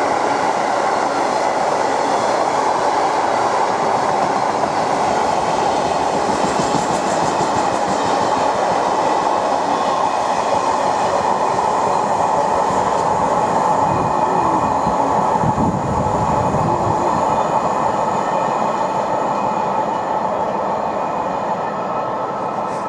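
A train running past on the line, a loud, steady rush of wheel and rail noise that eases slightly near the end.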